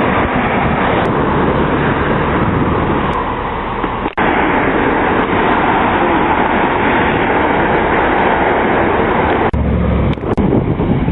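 Road vehicle noise: a steady, loud rush of engine, tyres and wind, broken by abrupt cuts about four seconds in and again near the end.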